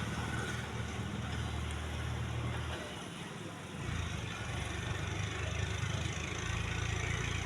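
A motor vehicle engine running steadily, fading briefly about three seconds in and then coming back.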